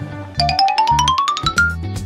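Cartoon background music with a steady bass beat, and a quick run of about a dozen short bright notes climbing steadily in pitch, starting about a third of a second in and stopping shortly before the end.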